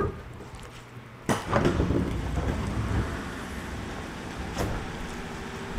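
Inside a JR 211 series electric train car: a sudden loud clunk a little over a second in, then a steady rumbling noise, with a sharp click near the end.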